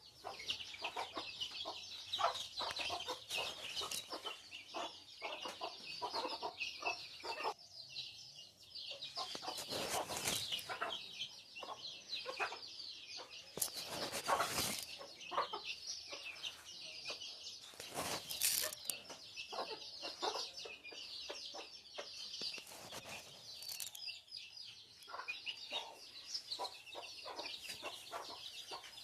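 Chickens clucking, with constant high chirping over the clucks. There are a few brief noisy rushes about a third and about halfway through.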